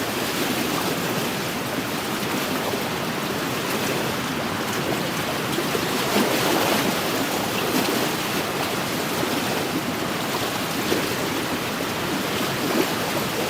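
Small wind-driven lake waves lapping and splashing continuously against the shore.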